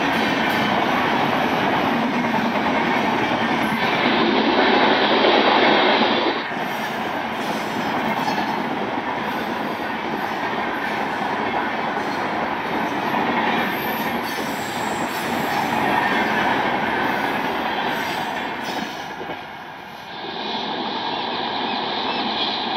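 LHB passenger coaches of an Indian Railways express train rushing past on the rails: a steady loud rush of wheel and rail noise, louder for a couple of seconds about four seconds in.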